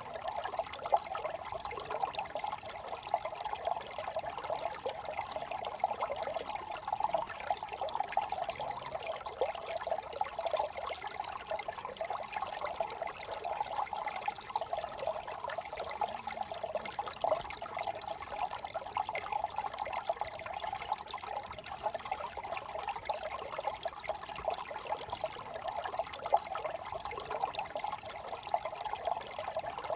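A small brook trickling and babbling steadily over stones, a continuous bubbling with quick small splashes.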